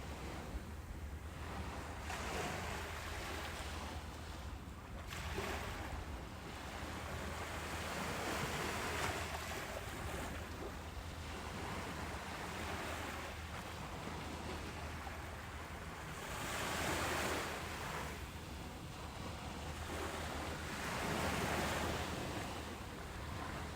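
Ocean surf breaking on a beach: a continuous wash of waves, swelling louder every few seconds as each wave breaks and then easing back.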